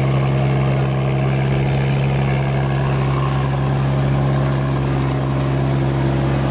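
Off-road 4x4's engine idling steadily, with an even low hum that does not rise or fall.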